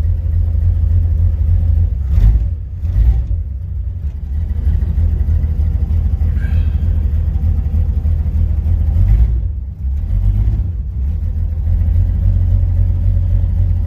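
Chrysler Slant 6 engine in a 1970 Dodge Swinger idling shortly after a cold start in sub-freezing weather: a steady low rumble that dips briefly twice.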